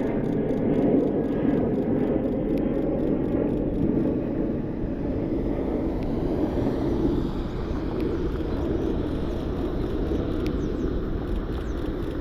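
Jet airliner engines producing a steady, low rumble that eases a little about four seconds in.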